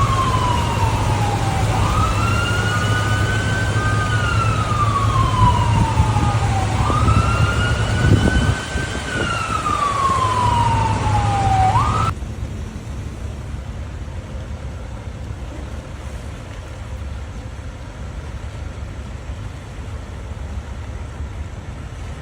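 Emergency vehicle siren wailing, its pitch sliding slowly down and back up every few seconds over a steady low engine hum. About twelve seconds in it cuts off abruptly, leaving a quieter, steady rushing noise.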